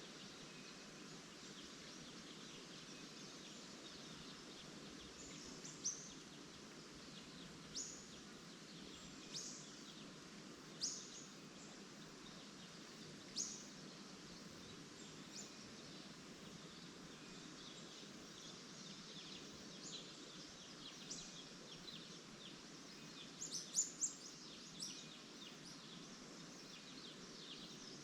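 Wild birds giving short, separate chirps every couple of seconds, the loudest a quick cluster of calls near the end, over a steady rustle of leaves.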